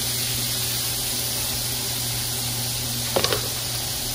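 Shrimp sizzling in butter and olive oil in a cast-iron skillet, a steady hiss, with a few quick knocks about three seconds in.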